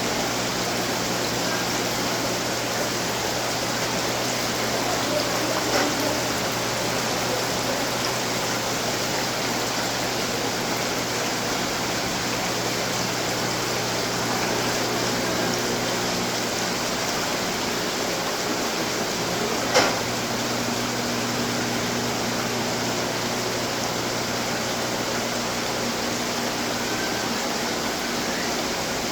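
Water from several decorative fountains splashing and trickling in a steady rush, with one sharp click about two-thirds of the way through.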